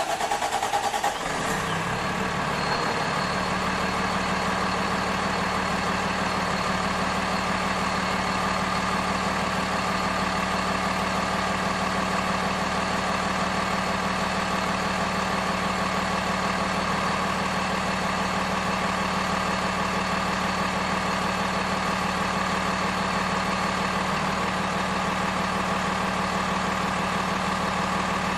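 Steady idling engine sound from an RC mining truck, holding one even pitch throughout.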